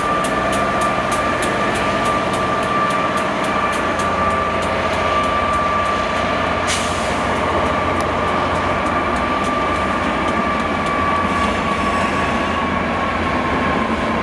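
Trains running slowly past: a locomotive and then a GWR Intercity Express Train. A steady electric whine dips slightly near the end, over regular clicks of wheels on rail joints that come further apart as the train slows.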